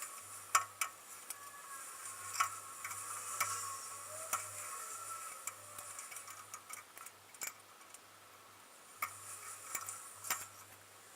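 Sparse, irregular sharp clicks and light taps, roughly one a second with a quick cluster near the end, from hand tools working on the rear drum brake of an old Chevy pickup.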